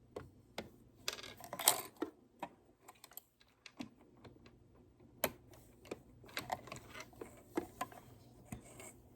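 Irregular small clicks and taps of a presser foot being changed on a Janome Memory Craft 9000 sewing machine, the old foot unclipped and foot M snapped into place.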